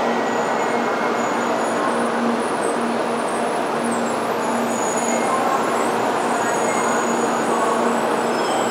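Steady rumble with a low hum inside a Shinkansen bullet train carriage at the station.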